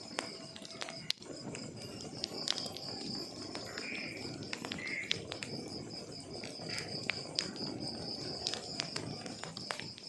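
Wood fire crackling in a fireplace: a steady low rush of burning logs with sharp irregular pops and snaps. A continuous high-pitched pulsing trill runs along with it.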